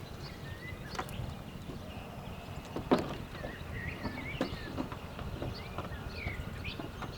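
Outdoor background with small birds chirping on and off, and a few sharp knocks, the loudest about three seconds in.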